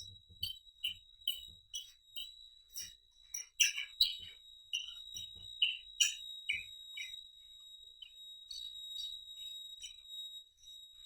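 Close-up eating sounds: wet chewing and mouth smacks, coming in quick irregular bursts that thin out after about seven seconds, over a steady high-pitched whine.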